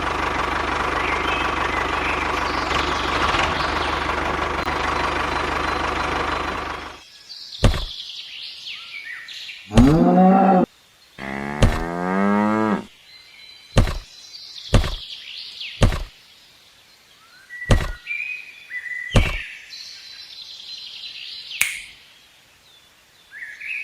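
A small engine running steadily for about seven seconds, then cutting off abruptly. After that birds chirp, there are a series of sharp knocks, and a cow moos twice in the middle of the stretch.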